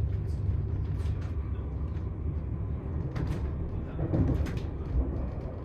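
Steady low rumble of a moving train heard from inside the carriage, with scattered light clicks and rattles.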